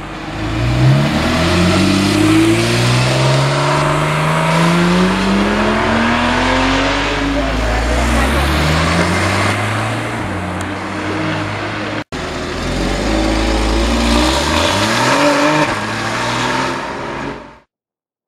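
Porsche sports car engines accelerating hard, the revs climbing and falling back again and again as they shift up through the gears. There is a brief break about twelve seconds in, and the sound cuts off shortly before the end.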